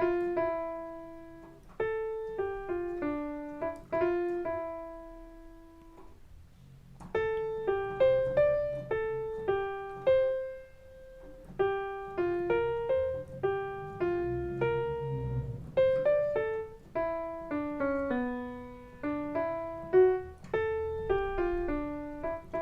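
Piano playing a simple melody one note at a time in the middle register, the second part of a bossa nova tune, with a short pause about six seconds in.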